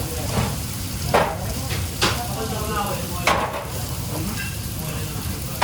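Food sizzling as it fries in a busy restaurant kitchen, with about three sharp metal clanks of utensils against pans that ring briefly.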